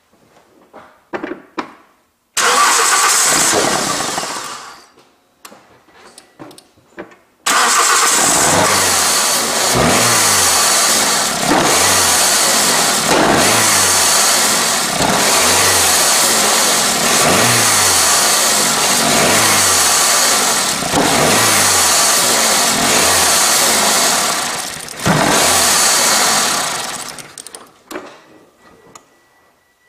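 Car's four-cylinder petrol engine started with its air filter and intake air temperature sensor disconnected: it fires about two seconds in and dies away, is started again and runs roughly, with a rhythmic surge about every second and a half, then stops near the end. The rough running is the sign of the missing intake parts and unplugged sensors behind the P0110 intake air temperature circuit fault.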